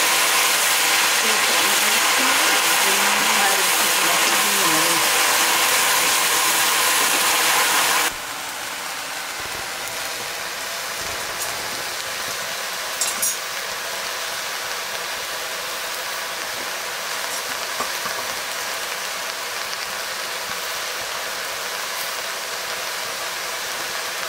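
Food sizzling in a hot pan, a loud even hiss that cuts off abruptly about eight seconds in. After that comes a quieter steady hiss with a few faint clicks.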